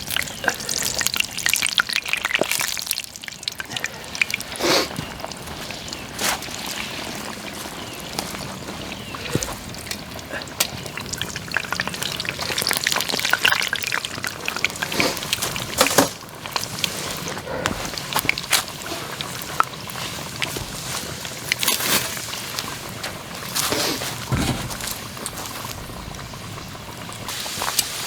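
Hot cooking oil sizzling over a campfire, with many scattered pops and crackles throughout.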